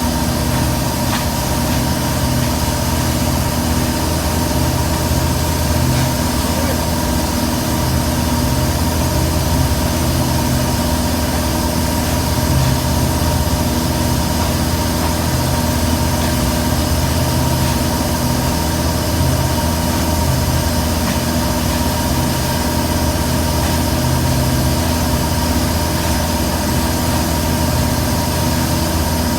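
Boat engine running at a steady speed, a constant low drone with an unchanging pitch.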